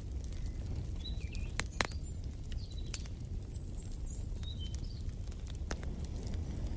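Wood fire crackling with scattered sharp pops over a steady low rumble, while birds chirp in short high notes through the middle.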